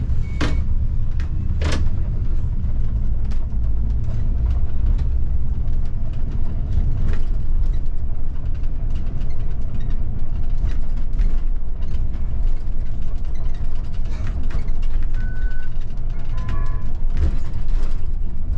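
City bus under way, heard from the driver's cab: a steady low engine and road rumble with frequent small creaks and rattles from the cab and body.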